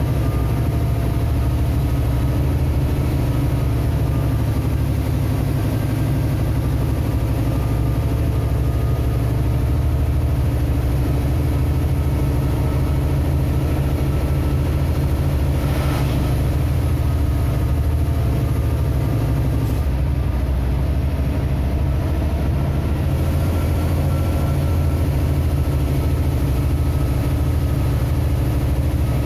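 A vehicle's engine and road noise in a steady low rumble, with a faint steady whine above it and a single click about halfway through.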